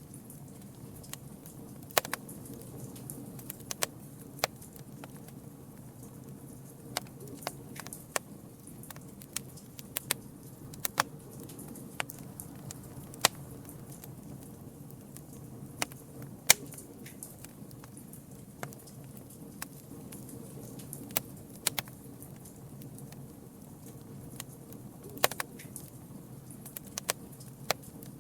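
Campfire burning: irregular sharp crackles and pops, a few much louder than the rest, over a steady low rush of flame.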